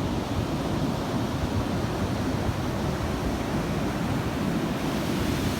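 Steady rush of ocean surf breaking on a beach, mixed with wind noise on the microphone.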